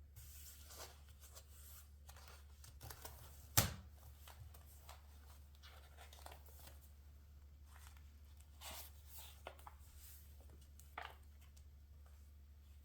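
Paper being handled for a collage: soft rustles and short tearing strokes, with one sharp tap about three and a half seconds in and another near eleven seconds. A faint low hum runs underneath.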